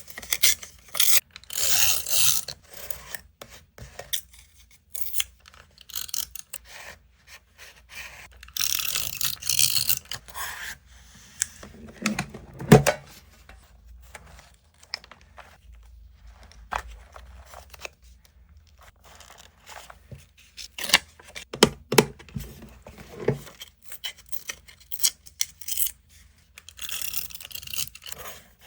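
Paper and stationery being handled for scrapbooking: a few longer stretches of paper sliding, rubbing or tearing, between many small taps and clicks, with one heavier knock about halfway through.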